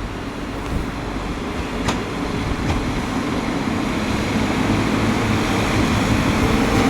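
Passenger train starting to pull out of the platform, its running noise building gradually with a rising hum. There is a single sharp click about two seconds in.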